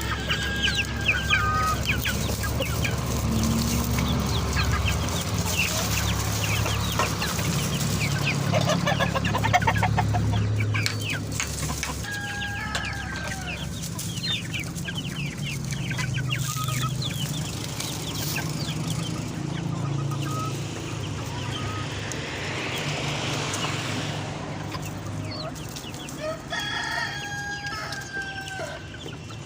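A flock of chickens clucking and calling together, a dense chatter of short calls, with a few longer calls like a rooster's crow near the start, around the middle and near the end. A steady low hum runs underneath.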